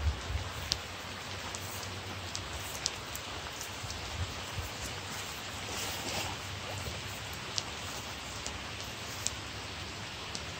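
Steady rain falling: an even hiss with scattered sharp drip ticks close by, and a brief low thump right at the start.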